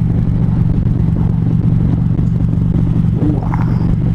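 Harley-Davidson Road Glide's V-twin engine running steadily at an even highway cruise on cruise control.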